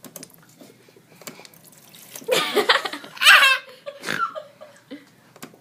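People laughing: a loud burst of laughter about two seconds in, lasting just over a second, followed by a shorter laugh.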